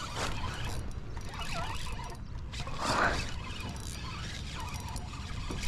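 Wind buffeting the microphone in a steady low rumble, with a faint wavering squeak about one and a half seconds in.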